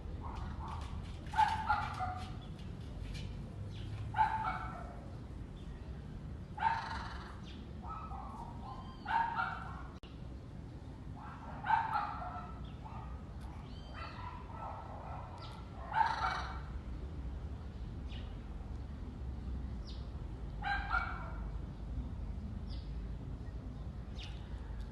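Parrot giving short, harsh calls, one every two to four seconds, over a low steady rumble.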